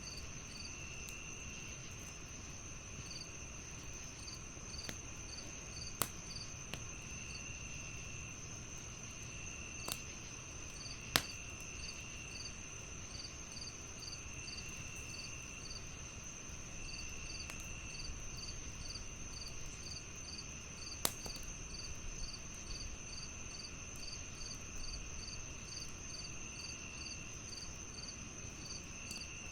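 Crickets chirping, a steady high trill layered with regular pulsed chirps about two a second and an on-and-off lower buzz, over the soft crackle of a wood fire. A few sharp pops from the fire stand out, the loudest about eleven seconds in.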